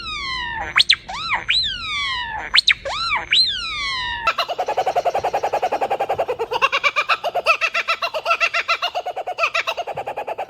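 Bird calls: a series of swooping calls that each rise and then fall in pitch, then, about four seconds in, a different bird's rapid, even chatter of about ten pulses a second.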